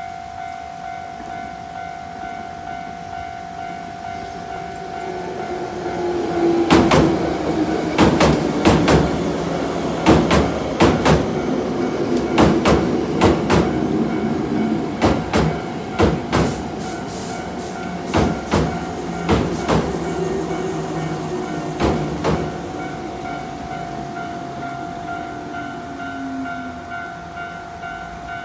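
Hankyu 5100-series electric train pulling into the station: its wheels clatter over rail joints in quick pairs that space out as it slows, over a low hum that falls in pitch near the end. A Japanese level-crossing alarm bell rings steadily throughout.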